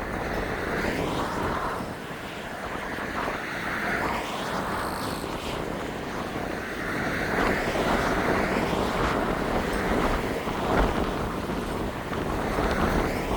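Gale-force wind gusting hard, swelling and easing every second or two and buffeting the microphone with a low rumble.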